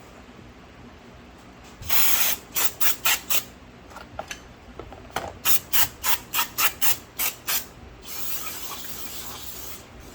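Carburetor parts being cleaned in a parts washer with solvent. There is a short burst of spray, then runs of quick hissing strokes at about four or five a second, then a longer steady hiss near the end.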